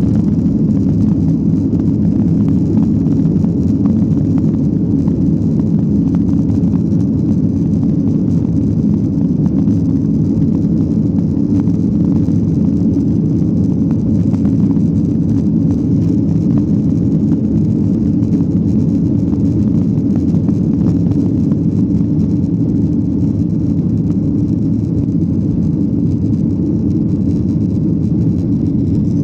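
Boeing 737-800 engine and airflow noise heard inside the passenger cabin: a steady, even low rumble with a faint high tone above it.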